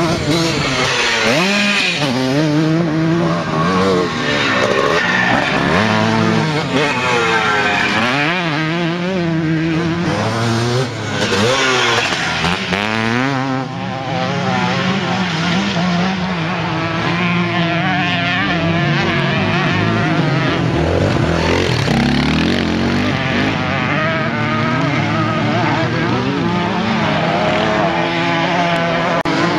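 Engines of several vintage motocross bikes racing, revving up and down with overlapping rising and falling pitches as they accelerate and shift.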